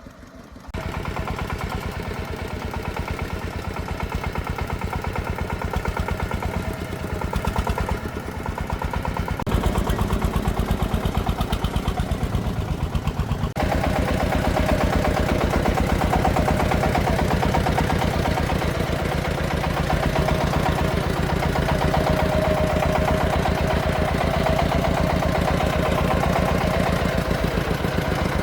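Single-cylinder diesel engine of a công nông farm truck running steadily with a fast, even chugging beat. Its sound jumps in level twice, near ten and fourteen seconds in.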